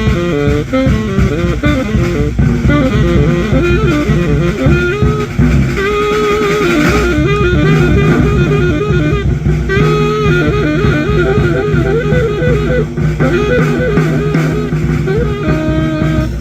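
Live jazz trio improvising: a saxophone plays a winding, ornamented melody over plucked bass notes and percussion.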